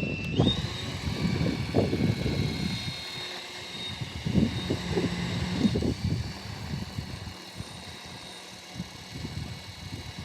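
Goblin 580 RC helicopter running up on the ground: a steady high-pitched whine that rises in pitch about half a second in and then holds, over gusty low buffeting. The whine is what the owner suspects is something wrong.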